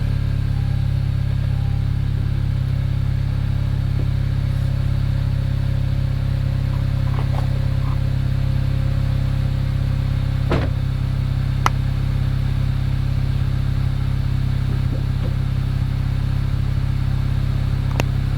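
Honda Civic Type R (FK8) 2.0-litre turbocharged four-cylinder idling steadily, heard at the exhaust through an RV6 catted downpipe, aFe front pipe and stock catback. A few sharp clicks stand out over the idle.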